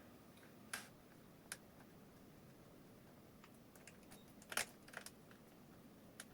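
Scattered light clicks and taps of parts being handled during 3D-printer assembly, against near silence: single clicks about one and one and a half seconds in, a quick cluster of three or four around four and a half to five seconds in, the loudest among them, and one more near the end.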